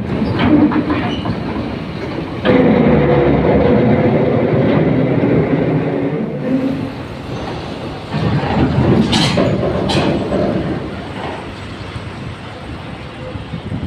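Heavy vehicle engines running, with loud rumbling and rattling as trucks are loaded onto a ferry. The sound rises suddenly about two and a half seconds in, and again about eight seconds in, where there are two sharp metal clanks.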